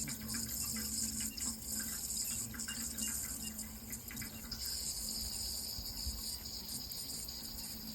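Water running steadily, with a constant high-pitched hiss over it and many small faint ticks and splashes.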